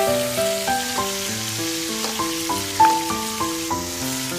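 Ground meat and onion sizzling as they sauté in a frying pan, under instrumental background music with a quick melody of short notes.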